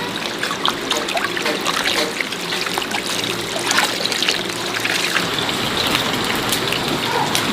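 Water trickling and splashing steadily, with many small clicks and taps mixed in.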